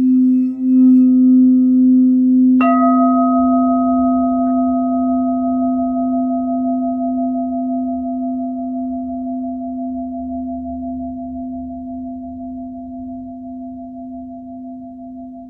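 Tiger's Eye alchemy crystal singing bowls ringing: a steady low hum that wavers for the first second. About two and a half seconds in, a bowl is struck and adds a brighter ring above the hum. The whole sound slowly fades away.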